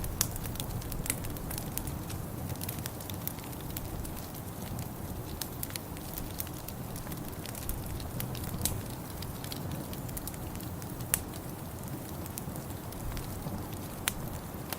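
Wood fire burning in a fireplace: a steady low rumble, with scattered sharp crackles and pops.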